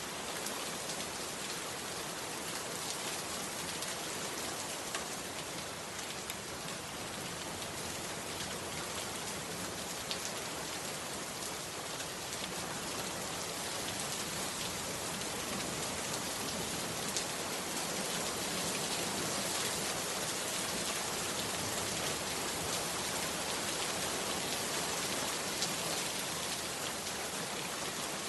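Heavy rain falling steadily, a dense hiss with many small drop ticks, growing a little louder about halfway through.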